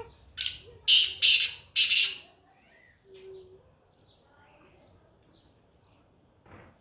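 Black francolin calling: one harsh, grating phrase of four loud notes in under two seconds, the last three close together. Fainter calls of other birds follow.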